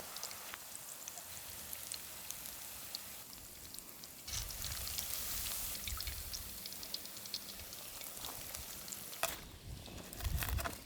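Chicken meatballs deep-frying in hot oil at moderate heat: a steady sizzle with scattered crackles. It gets louder about four seconds in, and a few sharp clicks come near the end.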